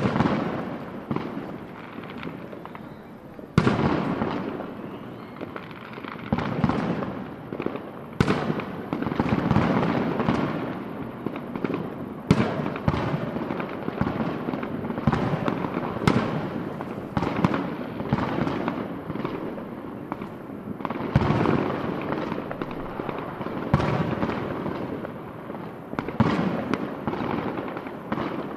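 Aerial fireworks finale: sharp shell bursts every few seconds over continuous dense crackling from the barrage.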